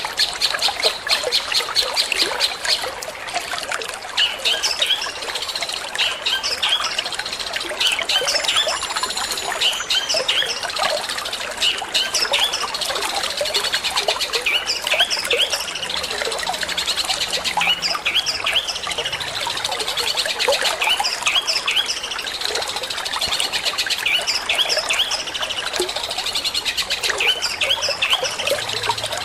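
Long-tailed shrike (cendet) singing a fast, rapid-fire 'petir'-style song of quickly repeated high notes and chattering rattles, over steadily trickling water.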